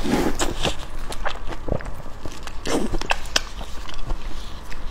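Close-miked mouth sounds of biting and chewing soft grilled food: a string of short wet clicks and smacks, with a couple of fuller low mouthfuls.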